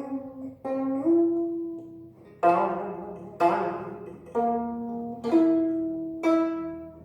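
Gayageum, the Korean twelve-string zither, plucked in a slow phrase of about eight notes, each ringing and fading. The left hand presses the strings behind the bridges so that several notes slide up in pitch or waver: nonghyeon, the gayageum's bending and vibrato ornament.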